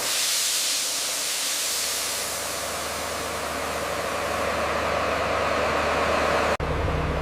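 Heavy construction machinery running: a steady low engine hum under a loud hissing noise, the hiss strongest in the first second or so. Near the end the sound cuts abruptly to a different, deeper engine hum.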